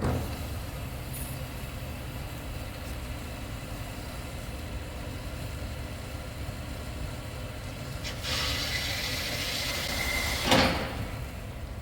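Workshop machinery running with a steady low hum. About eight seconds in, a harsher hiss with a thin steady whine joins for about two seconds and ends in a brief loud surge.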